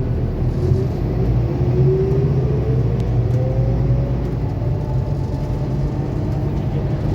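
A 2021 Scania K280UB4 bus running: a steady low rumble, with a whine rising in pitch over the first four seconds or so.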